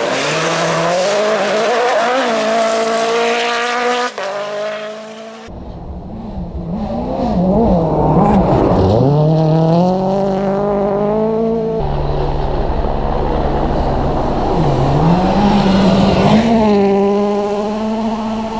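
WRC rally cars at full speed on a stage, engines revving high and dropping sharply through gear changes and braking, then climbing again, with tyre noise. The sound switches abruptly a few times, about 4, 5½ and 12 seconds in, as different cars and shots follow one another.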